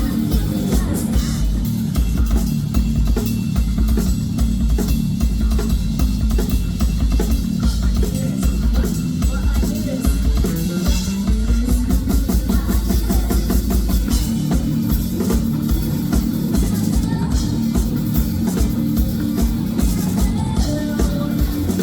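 Live rock band playing, the drum kit and bass to the fore in a steady driving beat.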